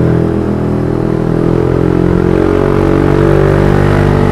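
Yamaha NMAX 155 scooter's single-cylinder engine running while riding. The engine note is steady, with small rises and falls in pitch.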